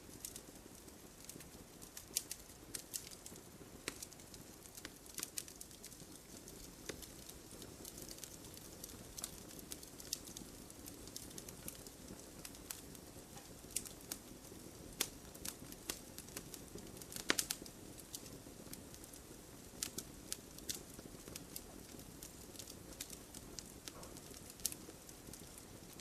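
Fireplace fire crackling: irregular sharp pops and snaps over a soft low hiss, with a brief louder cluster of pops about two-thirds of the way through.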